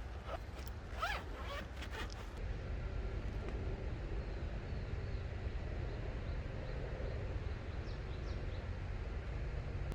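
A zipper pulled in a few quick strokes in the first couple of seconds. After that a steady low rumble continues, with a few faint bird chirps near the end.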